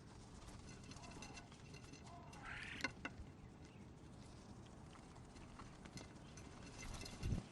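Backyard birds at a feeder: faint scattered taps and clicks with a few short chirps, the loudest click about three seconds in, and a low thump near the end.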